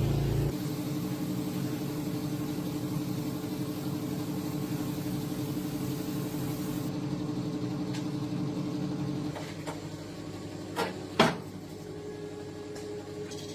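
An old tractor engine running steadily at an even pitch. Its tone changes about nine seconds in, and two sharp knocks follow, the second the loudest.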